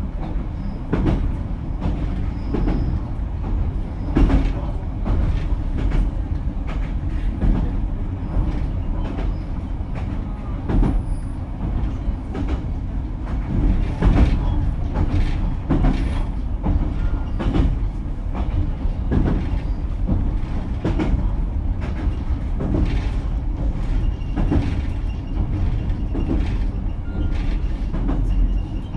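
Running sound inside a JR Kyushu BEC819 series battery-electric train car (KuMoHa BEC819-3) under way: a steady low rumble with the wheels clicking over rail joints again and again.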